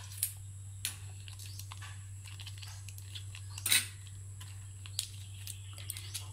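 Scattered small clicks, scrapes and crinkles of hands preparing instant noodles and their seasonings, over a steady low electrical hum.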